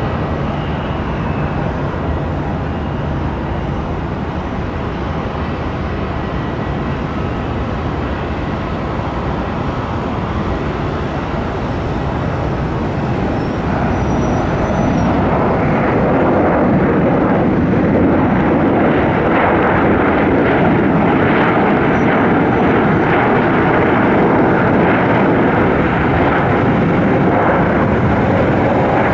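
Boeing 737-900ER's CFM56 jet engines in a steady roar during landing, growing louder about halfway through.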